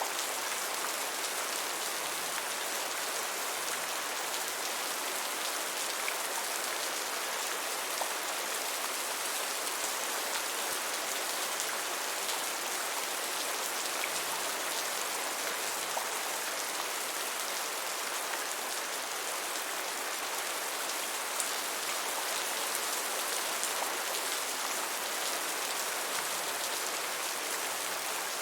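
Gentle, steady rain: an even hiss with faint, scattered taps of individual drops.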